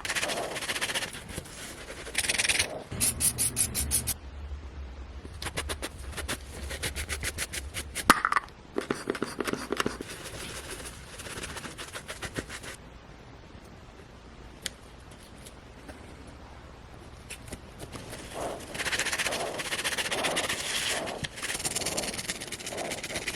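A brush scrubbing a hat, in runs of quick, rhythmic scraping strokes with pauses between them.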